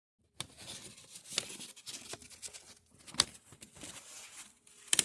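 Rustling handling noise, like paper or cardboard being moved about, with a few sharp clicks: one about a second and a half in, one about three seconds in, and the loudest at the very end.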